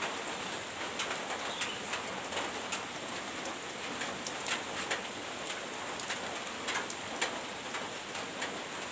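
Heavy rain falling steadily, with many individual drops striking nearby surfaces as sharp ticks through the hiss.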